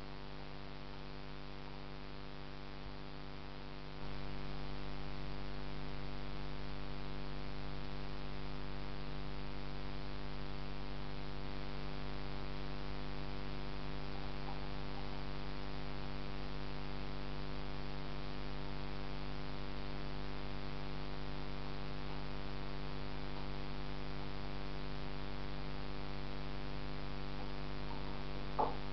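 Steady electrical hum made of many even tones over a faint hiss; it gets louder about four seconds in, with a brief click near the end.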